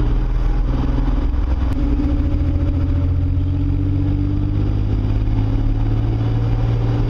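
Pontiac Fiero's swapped-in Camaro 3.4-litre V6 running steadily, its pitch dipping and rising slightly.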